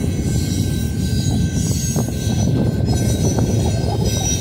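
Double-stack container cars of a long freight train rolling past: a steady rumble of steel wheels on rail, with a couple of short wheel squeaks about two and three seconds in.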